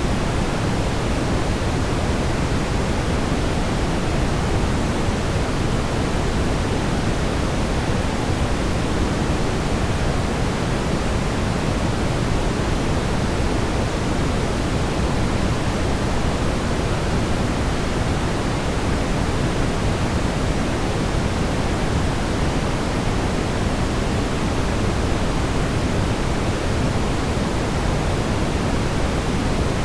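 Steady brown noise: a deep, even rumbling hiss, strongest in the low end, with no change in level.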